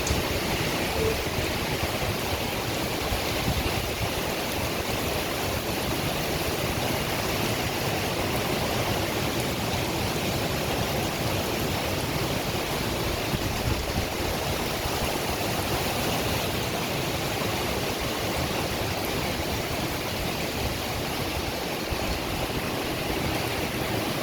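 Heavy rain pouring down in a storm, a steady, even hiss that does not let up.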